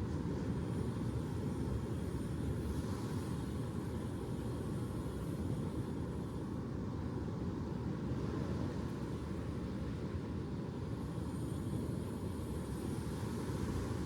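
Steady low rumble of ocean surf, an even wash of noise with no separate waves standing out.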